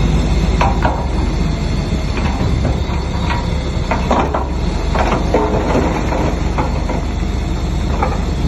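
Crawler bulldozer at work: its diesel engine runs steadily under load while the steel tracks clank irregularly, with a few short squeals.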